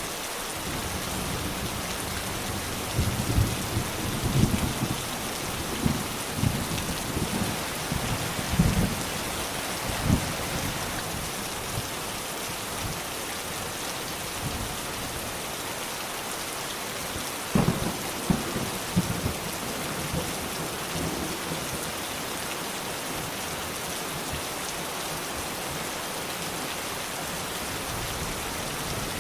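Steady rain falling, with thunder rumbling in two spells: a crackling roll from about three to ten seconds in, and a shorter one a little past halfway.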